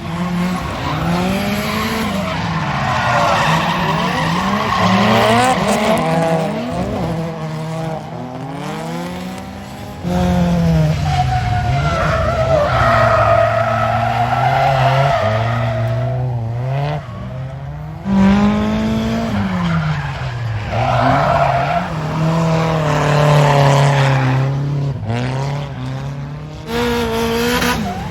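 Drift cars sliding with tyres squealing, their engines revving up and down as the drivers work the throttle. The sound changes abruptly twice, about ten and eighteen seconds in, as one pass gives way to the next.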